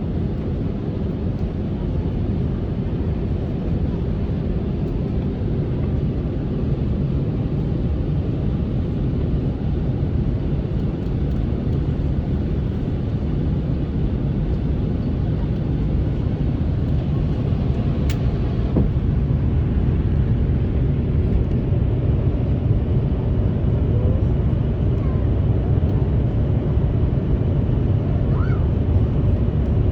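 Airbus A350 airliner cabin noise in flight: a steady low rumble of engines and airflow that grows slightly louder, with a single sharp click about 18 seconds in.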